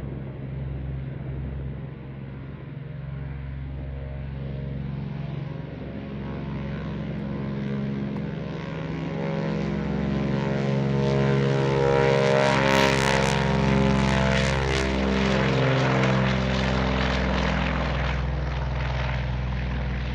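A Curtiss-Wright C-46F Commando's twin Pratt & Whitney R-2800 radial engines running with propellers turning, the engine note shifting in pitch. The sound grows louder to a peak about twelve seconds in as the plane comes closest, then eases off slightly.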